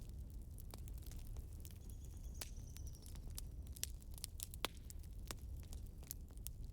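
Burning wood crackling and popping in irregular sharp snaps over a low steady rumble. A faint, thin, high whistle is heard about two seconds in and lasts about a second.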